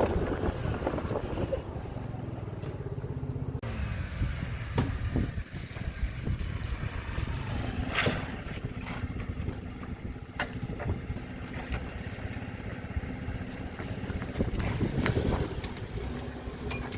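Delivery motorcycle's engine running while riding, with a few short knocks along the way.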